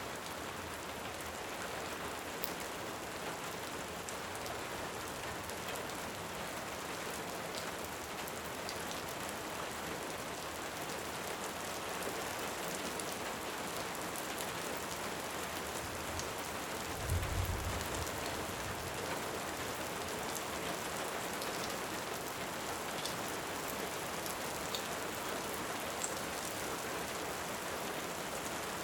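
Steady heavy rain, an even hiss with scattered light ticks. About seventeen seconds in, a short, low rumble of distant thunder comes through.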